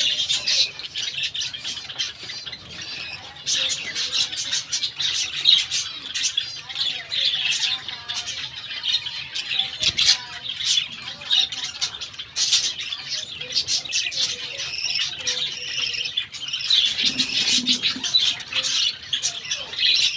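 A group of budgerigars chattering continuously, a dense mix of rapid chirps and harsh squawks with no pause.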